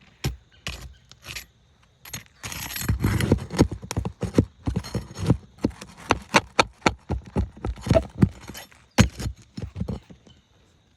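Metal hand tools knocking, clinking and scraping against asphalt shingles and nail heads: a run of irregular sharp knocks, with a longer scrape about two seconds in, as the shingle nails are worked loose.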